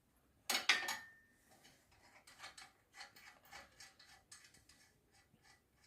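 A sharp metal clink with a brief ring about half a second in, then light, irregular clicking and tapping of metal tools and parts being handled.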